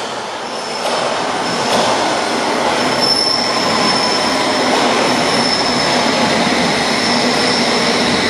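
A London Underground District line S7 Stock train pulling into the platform. The rumble builds over the first couple of seconds and then holds steady, with a high-pitched squeal from the wheels or brakes.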